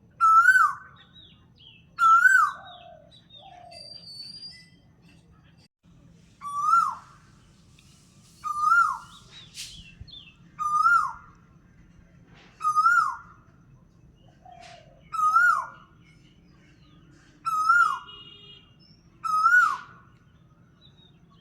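A bird's call repeated about every two seconds: a short note that rises and then falls, nine times with a longer pause about a third of the way in, with fainter, lower chirps between.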